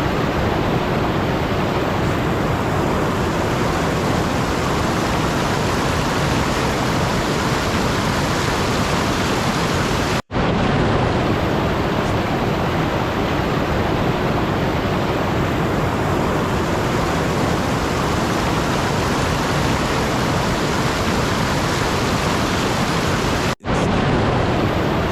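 Loud, steady rushing noise with no tone or rhythm in it, like rain or static, cut off twice by a split-second dropout.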